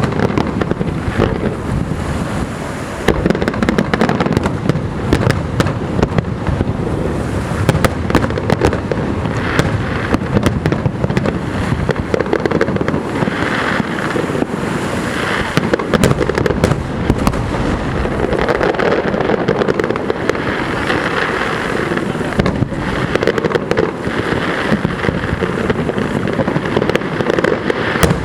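Aerial fireworks display: a dense, continuous barrage of shell bursts, bangs following each other so closely that they overlap.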